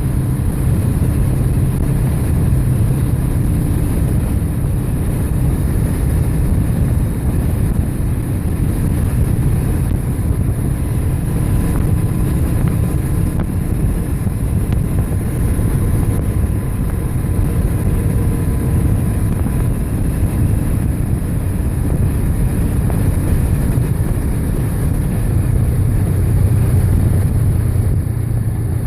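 Steady low rumble of riding along a road on a bike: wind and road noise on the camera's microphone, with no breaks or distinct events.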